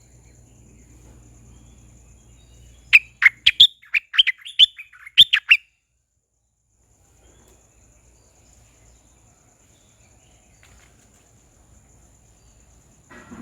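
Parrot calling: a rapid string of about a dozen loud, sharp, shrill calls lasting a couple of seconds, starting about three seconds in.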